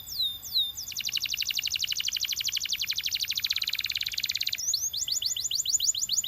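Belgian canary singing: a few falling whistled notes, then a very fast trill held for about three and a half seconds, breaking into a slower run of quick chirped notes near the end.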